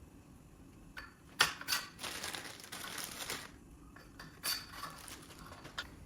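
Plastic protective packaging being pulled off a washer's handle, crinkling and rustling in short bursts, with a few light clicks from the handle and nuts being handled.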